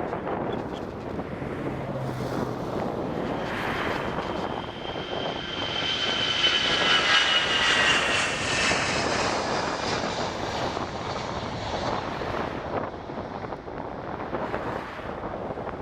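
Airbus A330-200 jet engines at takeoff power as the airliner passes: a rumble with a high whine that slowly falls in pitch, loudest about halfway through, then fading away.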